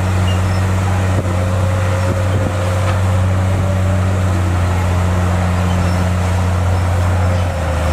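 Bulldozer's diesel engine running steadily under load, a low drone with a faint higher whine above it; the engine note shifts slightly near the end.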